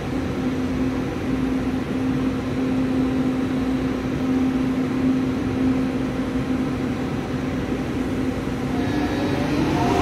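Electric train running: a steady rumble with a low hum, and near the end a rising whine from the traction motors.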